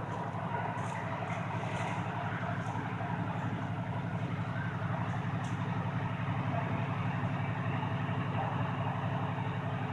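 A large vehicle engine idling steadily, a constant low hum.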